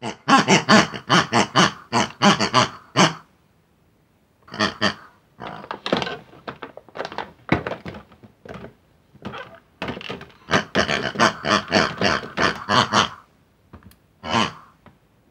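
Cartoon pig voices grunting and oinking in quick runs, a long burst at the start and another a few seconds before the end, with scattered grunts between.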